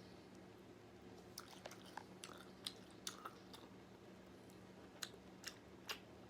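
A person chewing food close to the microphone, quiet mouth smacks and clicks coming irregularly from about a second and a half in, over a faint steady hum.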